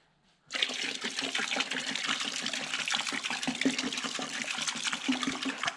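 Sprayer jetting hot water onto degreased chainsaw parts to rinse them off, a steady rushing spray with crackling spatter. It starts about half a second in and cuts off abruptly just before the end.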